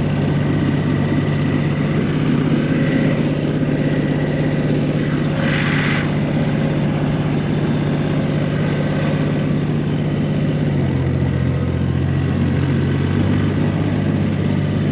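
1985 John Deere 1050 tractor's three-cylinder diesel engine running steadily while the tractor drives slowly, cold, to warm up its hydraulics and gearing. A brief hiss comes midway, and about two-thirds of the way through the engine drops to a lower speed.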